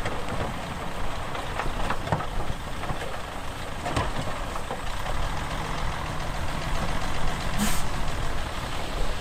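Heavy diesel earthmoving machinery running steadily under load, with scattered metallic knocks and a short air hiss about three quarters of the way through.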